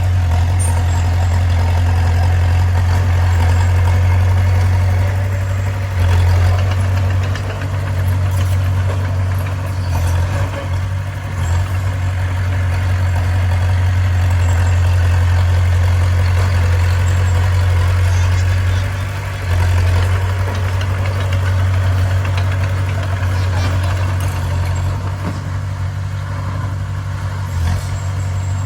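Bulldozer's diesel engine running steadily with a deep, low drone, easing off briefly a couple of times.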